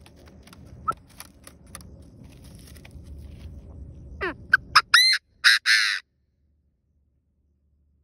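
Chinese francolin calling: a few sweeping notes about four seconds in, then a short run of loud, harsh calls. The calls are a recording played as a lure for wild francolins. Before them there is only faint background noise with scattered clicks, and the sound cuts off abruptly about six seconds in.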